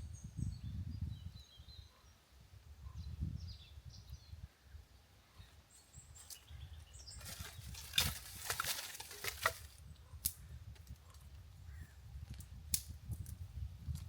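Outdoor woodland ambience: an uneven low rumble, faint bird chirps in the first few seconds, and about two seconds of crackling and snapping around the middle, followed by a few sharp single clicks.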